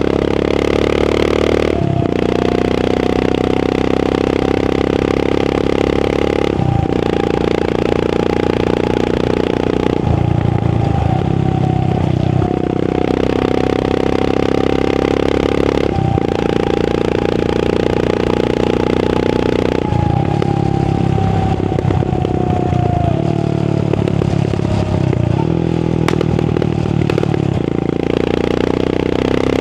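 Royal Enfield Continental GT 535's 535cc single-cylinder engine through an AEW aftermarket exhaust, ridden on the road: a steady thump under throttle, broken several times by throttle lifts and gear changes, with some crackle when the throttle is shut.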